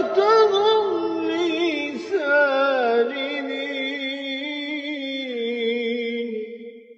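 A man's voice reciting the Quran in melodic tajweed style, drawing out a phrase in long, ornamented held notes that waver in pitch. It drops to a lower sustained note about three seconds in and fades out near the end.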